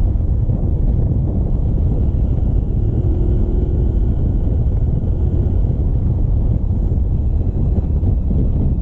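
Steady wind rushing over the microphone of a camera on a moving motorcycle, with the bike's running noise underneath.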